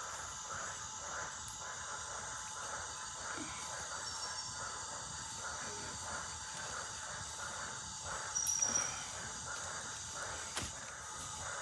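Tropical forest insect chorus: a steady high-pitched buzzing with a pulsing call repeating two or three times a second, and one brief louder chirp about two thirds of the way in.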